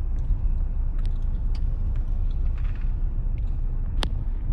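Steady low rumble of a car heard from inside its cabin as it idles in a queue, with a few faint ticks and one sharp click near the end.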